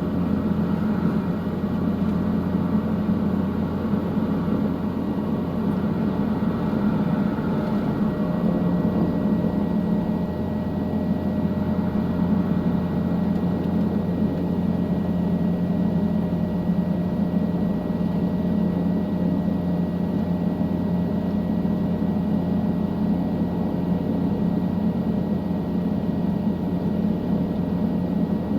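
Helicopter in flight, heard from inside the cabin: a steady, even drone of engine and rotor with a faint high whine.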